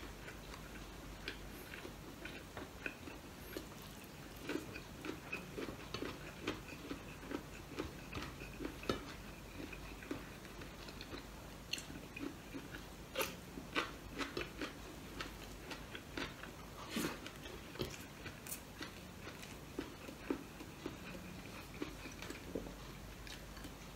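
A person chewing and biting food close to the microphone, with soft wet mouth clicks and small crunches, and a few sharper clicks scattered through.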